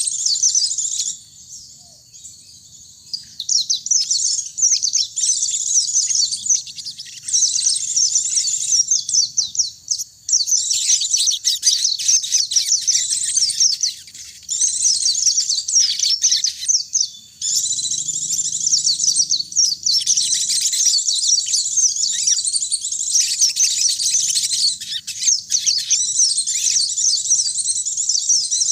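Fast, high twittering song of white-eyes (pleci), with long runs of rapid chattering notes broken by a few short pauses.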